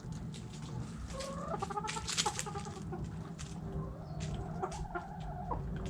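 Backyard chickens clucking as they feed on food scraps, with a drawn-out rising call a little after a second in and many short sharp clicks of pecking scattered throughout.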